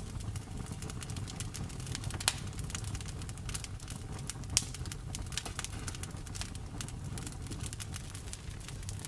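Wood fire crackling: a steady low rumble of the flames under many quick snaps and pops, two of them louder, about two seconds in and again about halfway through.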